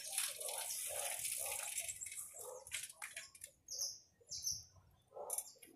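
A small bird chirping: short, high, falling calls repeated several times in the second half. Before them there is a steady rushing hiss for the first few seconds.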